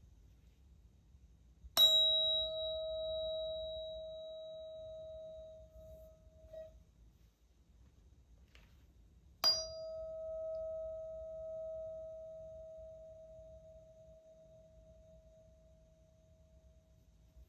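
Two solfeggio tuning forks of the same note, struck one after the other, a weighted and an unweighted fork being compared. Each strike gives a bright ring at the same pitch with faint higher overtones. The first fades out after about five seconds; the second, struck about eight seconds later, rings on for about eight seconds.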